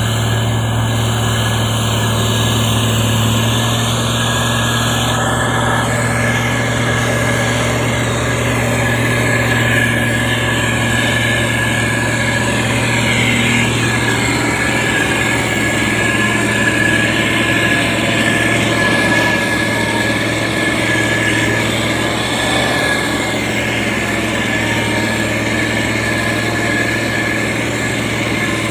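Diesel engine of a SANY STG190C-8S motor grader running steadily, a deep engine note with a thin steady whine above it.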